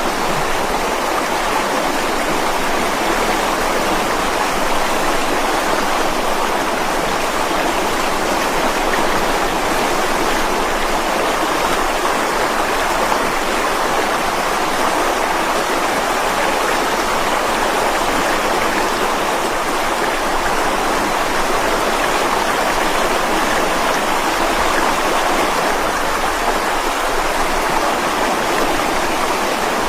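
Mountain stream flowing over rocks: a steady, continuous rush of water.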